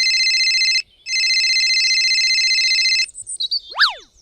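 Trilling electronic telephone ring, two long rings with a short break after about a second; near the end a quick whistle-like pitch sweep, falling then rising.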